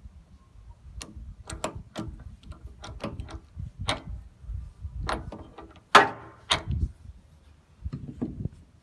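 Hand tools clicking and knocking against metal fittings during mechanical work, in an irregular series of sharp knocks. The loudest pair comes about six seconds in.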